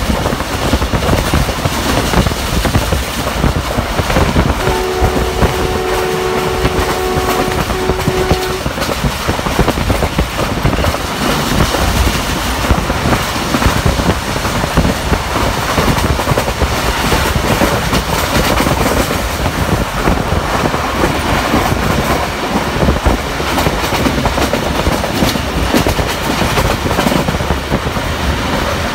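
Loud, steady rush of wind and wheel-on-rail noise from a passenger train running at speed, heard from a coach window. About five seconds in, the locomotive's horn sounds a chord for roughly three seconds, breaks briefly and gives a short final note.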